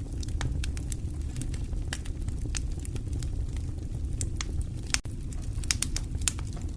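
Fire burning in a fireplace: a steady low rumble with irregular sharp crackles and pops, coming in a quick cluster near the end.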